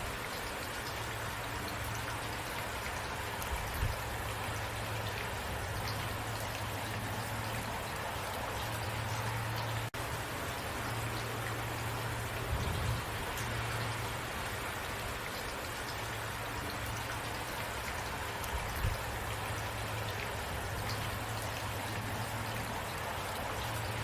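Steady rain falling, an even hiss with scattered drop ticks, over a low hum that comes and goes. There are a few soft thumps, and a brief dropout about ten seconds in.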